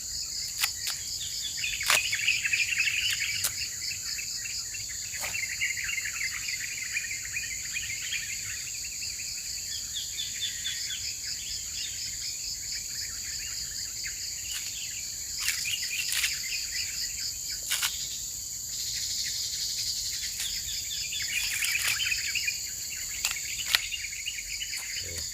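Tropical forest ambience: insects trill steadily in a high, rapidly pulsing chorus, and bursts of bird twittering come in several times. Occasional sharp snaps and clicks are scattered through it.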